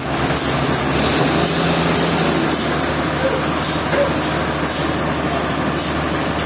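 A heavy machine or engine running steadily with a low hum, and a short hiss that repeats about once a second.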